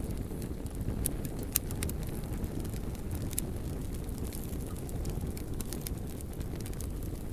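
Fire burning: a steady low rumble of flames with scattered sharp crackles and pops, the loudest about a second and a half in.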